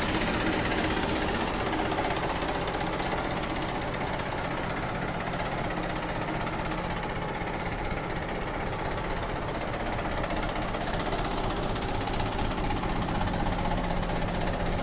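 Chevrolet D20 pickup's diesel engine running steadily, with a slight dip in loudness midway and a rise again near the end.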